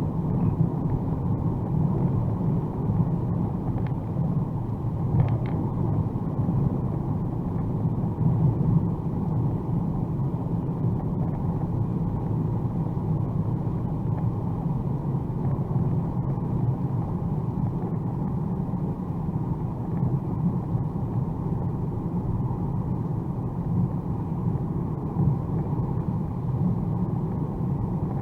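Steady low cabin rumble of a 2021 Mercedes-AMG A35 4MATIC+ cruising at speed on a wet motorway: tyre, road and drivetrain noise heard muffled from inside the car, with a few faint ticks about four to six seconds in.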